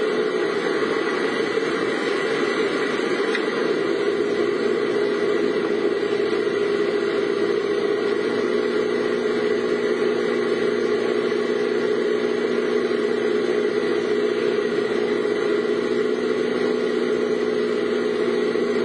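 A vehicle's engine running at a steady speed, heard from inside the vehicle as an even hum with a hiss of noise above it.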